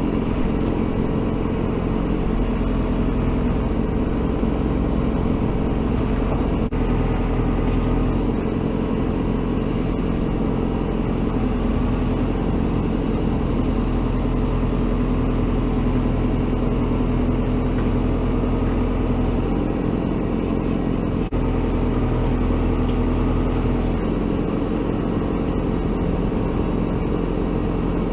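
Diesel engine of heavy earthmoving machinery running steadily, an even low drone, with two very brief dips about 7 and 21 seconds in.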